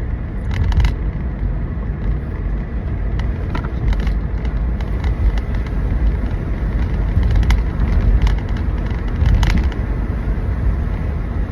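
Car cabin road noise while driving: a steady low rumble, with scattered small clicks and taps.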